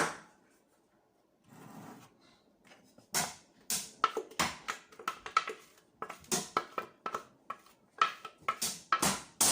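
Kitchen utensil knocking and scraping against a container as carrot cake batter is cleared out. Quiet for the first few seconds, then many quick, irregular knocks and clicks, some with a short ring.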